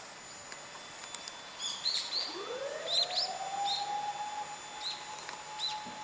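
A bird gives short, high chirps in several quick clusters. Under it a siren winds up from about two seconds in and then holds one steady tone.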